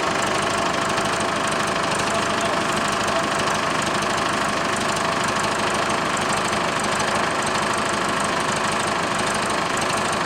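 Tractor engine idling steadily, with an even, fast knocking beat.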